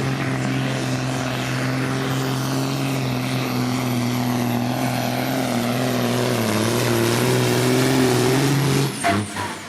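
Supersport pulling truck's engine running flat out under load as it drags the sled, a steady loud drone whose pitch sags and wavers slightly in the second half, cutting off abruptly near the end.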